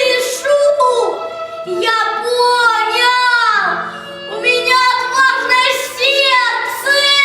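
A high child's voice singing phrases that slide down at their ends, over music with a low held note in places.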